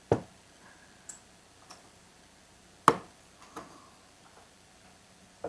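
Scattered sharp clicks and taps of hand tools and small chainsaw parts being handled during disassembly of the fuel lines and carburetor area: about six separate clicks, the loudest about three seconds in.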